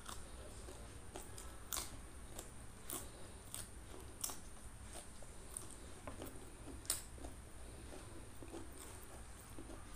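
Close-up chewing of crisp raw vegetables, with a few sharp crunches and mouth clicks scattered through it.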